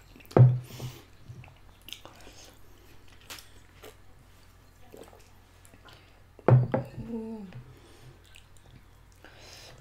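Two people chewing spaghetti close to the microphone, with scattered small clicks. A short hummed voice sound comes just after the start and another about six and a half seconds in.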